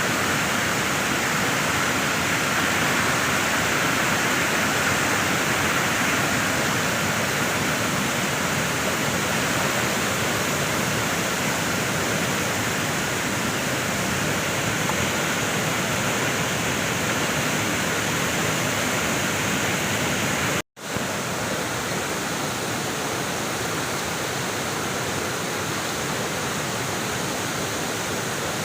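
Waterfall: a steady, loud rush of falling water. It breaks off for an instant about two-thirds of the way through and comes back slightly quieter.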